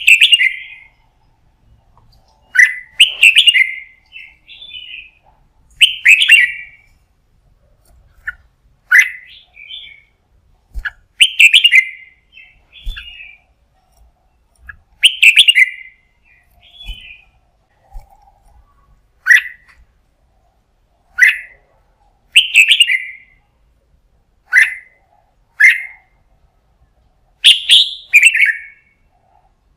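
Red-whiskered bulbul singing short, loud phrases, one every two to three seconds.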